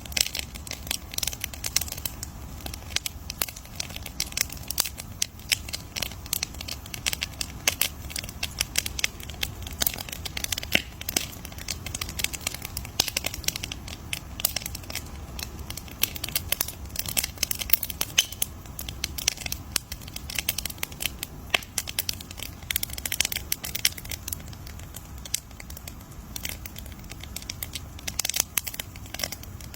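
Wood campfire crackling: dense, irregular pops and snaps over a steady low rumble of the burning fire.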